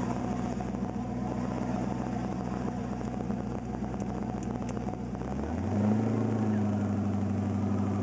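Twin-turbo 370-cubic-inch LS-based V8 running steadily at idle. About five and a half seconds in, the engine speed rises and holds at a higher, louder steady note.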